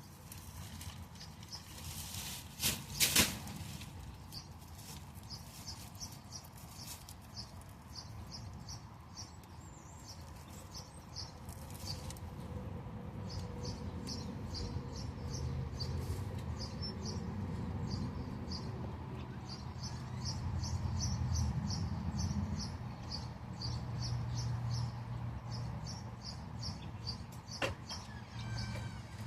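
Small birds chirping: short, high chirps repeating a few times a second. There is rustling handling noise underneath and a couple of sharp knocks about three seconds in.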